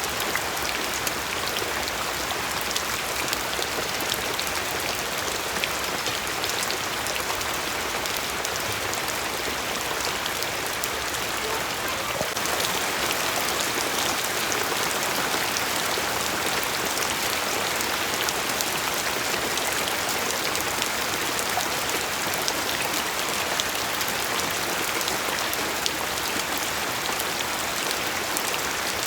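Steady rain falling, with many fine drop ticks in a constant hiss; it grows slightly heavier about twelve seconds in.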